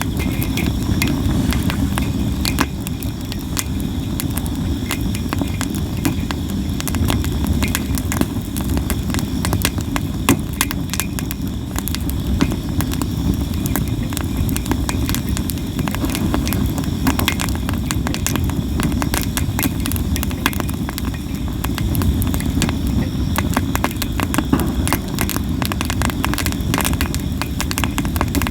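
Campfire of sawara (Japanese cypress) wood burning, crackling constantly with scattered sharp pops over a steady low rushing of the flames.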